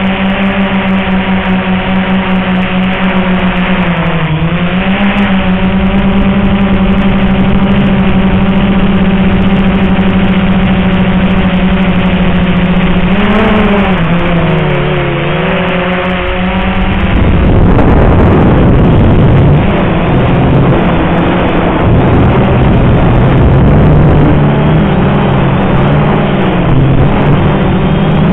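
XK X380 quadcopter's electric motors and propellers humming steadily, the pitch dipping briefly as the throttle changes about 4 seconds in and again near the middle. From a little past halfway a louder rushing noise takes over, with the rotor hum still under it.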